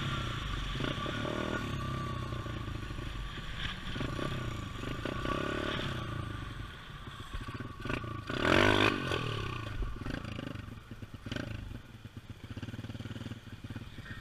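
Pit bike engine running and revving, its pitch rising and falling as the throttle is worked. The loudest rev comes about eight to nine seconds in, and the engine is quieter near the end.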